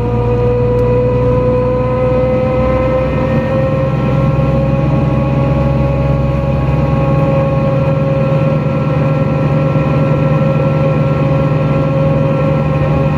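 Heard inside the cabin of a NefAZ-5299-30-51 city bus under way: the engine running steadily under a strong drivetrain whine that rises slightly in pitch over the first few seconds as the bus picks up speed, then holds steady.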